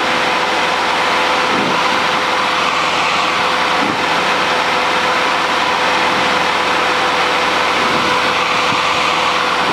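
Cessna 150's four-cylinder Continental O-200 engine and propeller running steadily in level flight, heard from inside the cockpit as an even drone with a constant hum.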